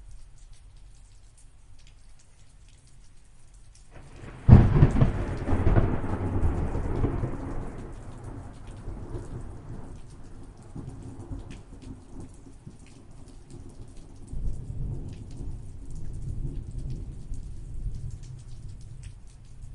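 Rain falling, with many small drops ticking. About four and a half seconds in, thunder breaks suddenly, loud, and rolls away over several seconds; a lower, softer rumble of thunder swells again in the last few seconds.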